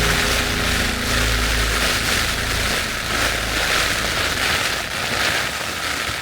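Strong gusting wind buffeting the microphone: a loud rushing hiss that swells and eases with each gust, over a heavy low rumble from the wind hitting the mic.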